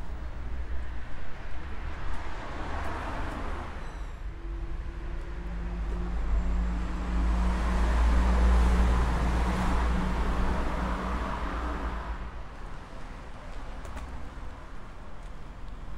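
Motor vehicles passing on the street: one goes by a few seconds in, then a louder one with a steady engine hum swells to a peak about halfway through and fades away.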